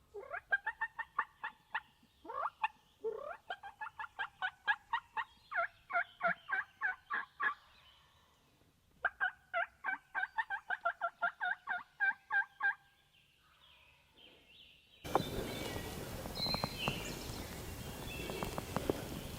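Wild turkeys gobbling and calling: two long runs of rapid, evenly spaced notes, separated by a short pause. Near the end the sound changes abruptly to a steady hiss.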